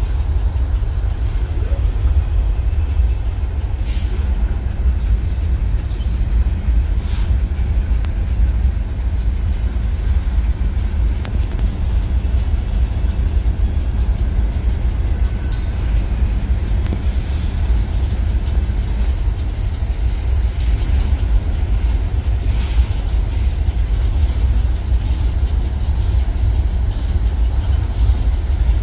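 Freight train cars rolling past: a steady loud rumble of wheels on rail, with a few faint clicks.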